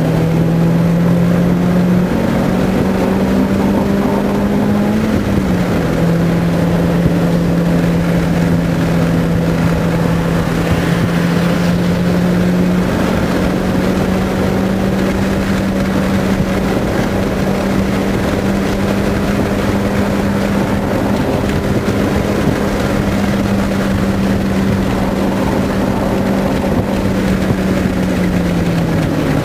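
Car engine heard from inside the cabin at track speed, a steady drone over road and wind noise. Its pitch steps up a couple of times, drops briefly about five seconds in, and falls away near the end.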